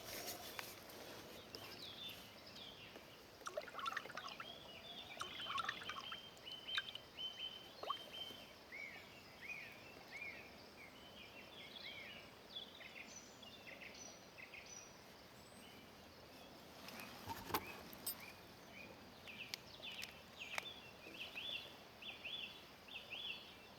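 Birds chirping and singing: many short, quick calls and swooping notes, with a few faint knocks in between.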